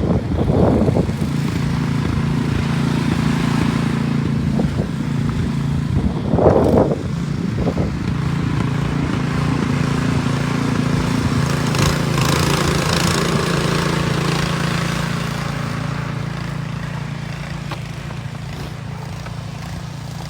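An engine running steadily nearby, its hum fading over the last few seconds, with a burst of hiss about twelve seconds in.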